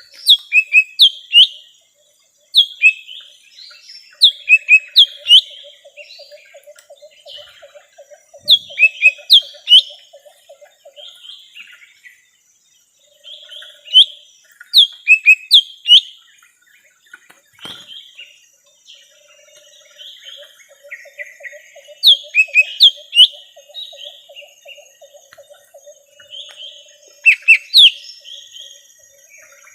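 Lesser green leafbird (cucak ijo mini) singing: clusters of sharp, quick whistled notes, repeated every few seconds with short pauses. A faint fast low pulsing runs underneath in two long stretches.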